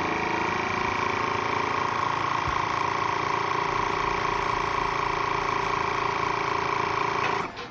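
Small electric pump motor running with a steady whine, cutting off suddenly near the end.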